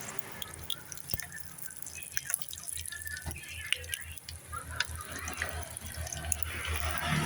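Small yellowstripe scad frying in a pan of oil, the oil crackling and popping in scattered small spits over a low hum.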